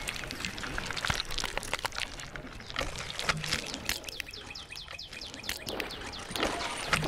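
Dense, rapid clicking and ticking with short high chirps, a sound effect for giant spiders walking and skittering.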